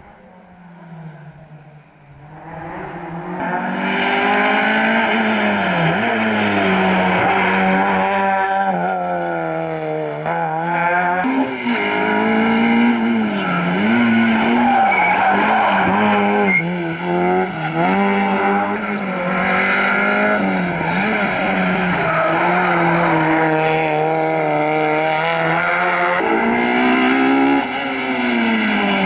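Rally car engine coming up from a distance over the first few seconds, then running loud and close. It revs up and drops back again and again as the driver shifts gears and lifts for corners.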